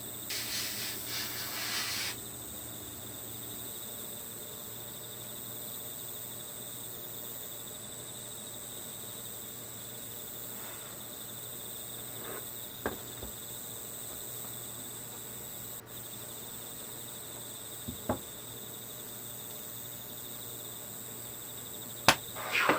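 Crickets chirping steadily. A short rustle comes in the first couple of seconds, and a few sharp clicks follow later, the loudest near the end.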